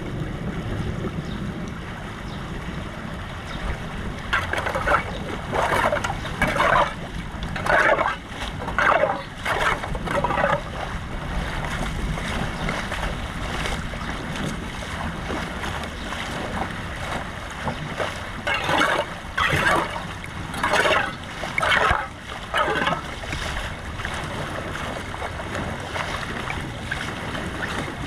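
Water rushing steadily through a cleared drain or dam opening, with two runs of splashing strokes about a second apart.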